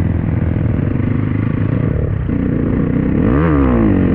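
Dirt bike engine running under way, its pitch dipping and then climbing again about three and a half seconds in.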